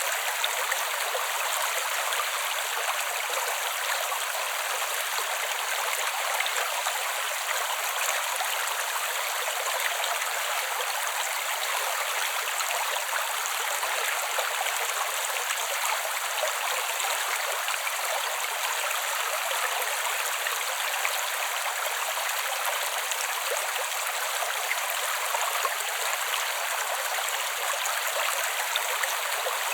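Creek water running steadily over rocks, a continuous even rush and babble with no breaks.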